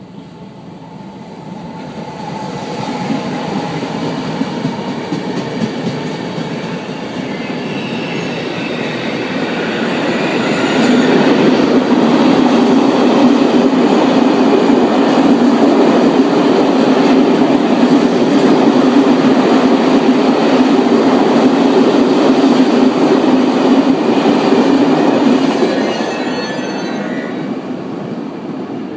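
A train passing through a station: it builds up as it approaches, runs loud and steady with a low hum and wheel noise for about fifteen seconds, then fades as it pulls away, with a faint high squeal near the end.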